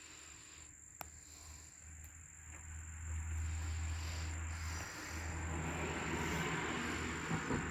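Insects trilling steadily in one high, unbroken tone. A low rumble with a hiss swells in about three seconds in and holds to the end. There is a single click about a second in.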